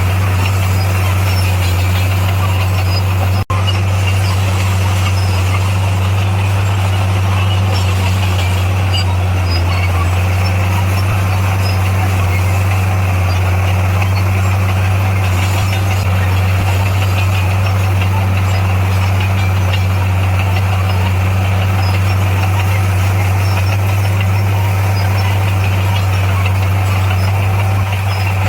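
Komatsu D58P bulldozer's diesel engine running steadily at a constant pitch, with a momentary break about three and a half seconds in.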